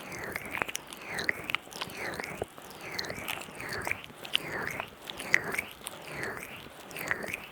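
Oiled hands rubbing over a binaural microphone in repeated strokes, about one a second, each a swishing sweep with sticky clicks. The sound is wet and squelchy because too much oil has been applied.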